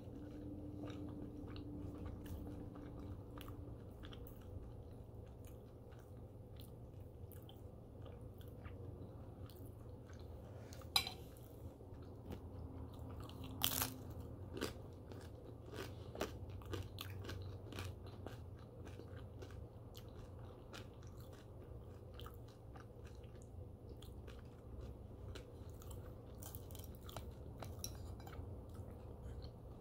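Close-miked chewing and crunching of breakfast food, with a sharp crunch about eleven seconds in and another, loudest, about fourteen seconds in as crisp turkey bacon is bitten.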